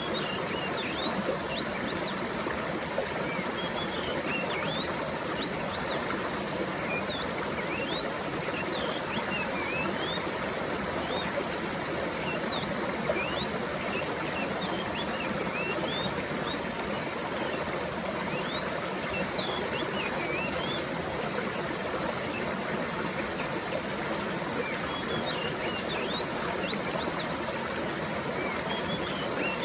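Mountain stream water flowing steadily, with small birds chirping throughout in short, quick upward-sweeping notes.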